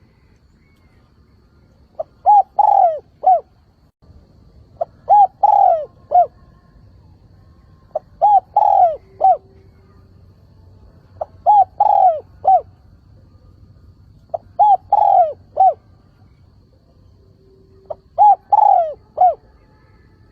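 Spotted dove calling its repeated cooing phrase six times, about every three seconds. Each phrase is two short coos, a longer falling coo and a short closing note.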